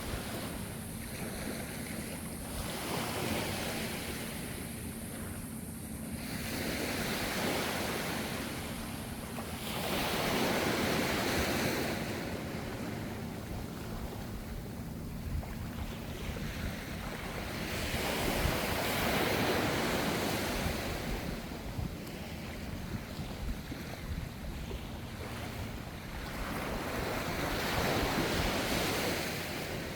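Ocean surf: gentle waves breaking and washing in, the rush swelling and ebbing every several seconds over a steady low rumble.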